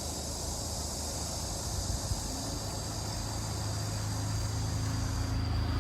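Steady low engine hum of a vehicle, growing gradually louder toward the end, with a high steady hiss like insects above it.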